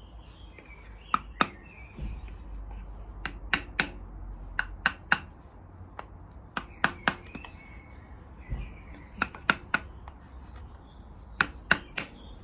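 Sharp metallic taps in quick groups of two or three, repeated every second or two, as a new crankshaft oil seal on a VW Beetle air-cooled engine is tapped a little further into the crankcase. Birds chirp faintly behind.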